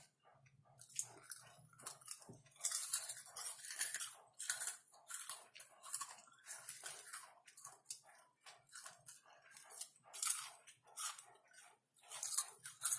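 Close-miked chewing of caramel popcorn: crisp crunches in a steady rhythm of about three chews a second, with a few louder crunching bites along the way.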